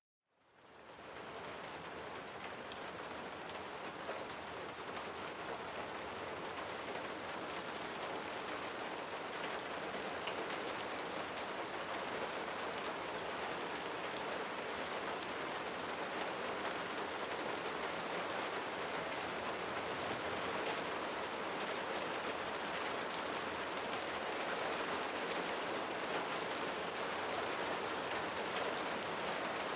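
Steady rain falling on leaves, a dense even hiss with fine ticks of individual drops. It fades in from silence in the first second.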